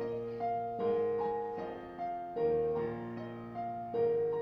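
Piano accompaniment playing an instrumental passage of chords between songs, each chord struck and left to fade, about one a second.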